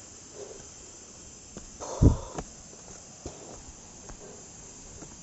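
Steady high-pitched chorus of forest insects, with a few faint ticks and one loud low thump about two seconds in.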